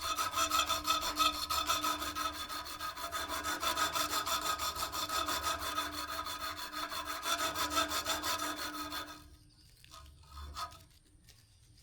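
Quick, rhythmic scraping strokes of a hand tool on the steel of a knife made from an old saw blade, with a steady metallic ringing. The scraping stops abruptly about nine seconds in, followed by a couple of faint clicks.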